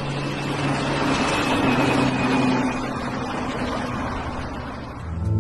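Car engine and road noise, a steady low hum under tyre rush that swells over the first couple of seconds and then eases off.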